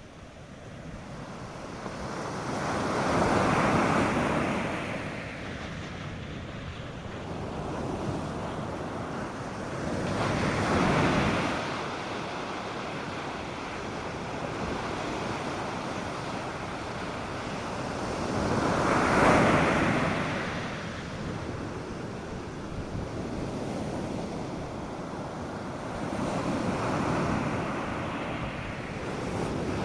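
North Sea surf breaking on a sandy beach: four waves surge in and wash out, about eight seconds apart, the third the loudest, over a steady hiss of water. Light wind rumbles on the microphone.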